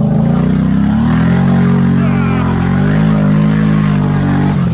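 ATV engine running at high revs, its pitch rising a little after the first second, wavering, then dropping near the end.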